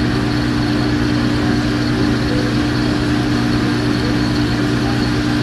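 Steady low mechanical hum with a constant pitch.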